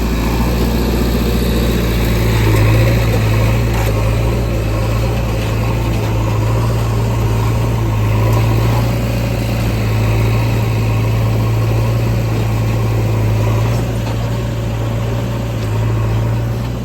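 Diesel engine of a JCB 3DX backhoe loader running steadily while it loads soil, with a strong low hum that swells a little under load now and then.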